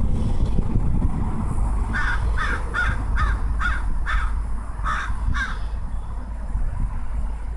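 A bird calling eight times in quick succession: six short calls at about two a second, then two more after a brief pause, over a steady low rumble.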